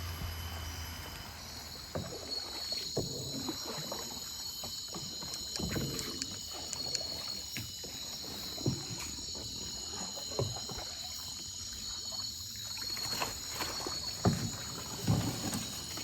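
Steady high-pitched insect chorus with irregular knocks and thumps, the loudest two near the end.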